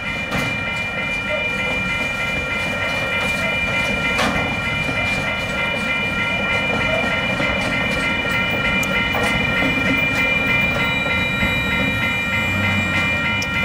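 Loaded container flat wagons of a freight train rolling past, with a steady rumble and occasional wheel knocks and clacks over the rail joints. Over it a level crossing's warning bell rings in a fast, steady repeating beat.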